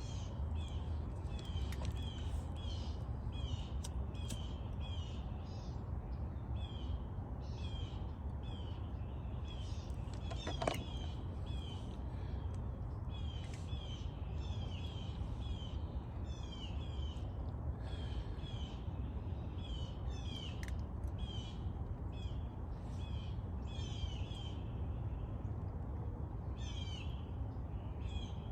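Birds chirping, many short high calls repeating a few times a second over a steady low rumble, with one sharp click about ten seconds in.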